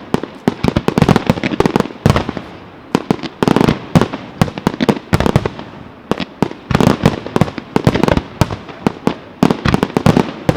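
Aerial fireworks display: a rapid, continuous barrage of shell bursts and bangs, many per second in dense clusters.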